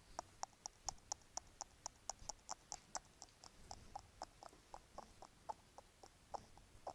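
Bracelets being tapped or clicked together in a quiet, steady rhythm of light clicks, about four a second.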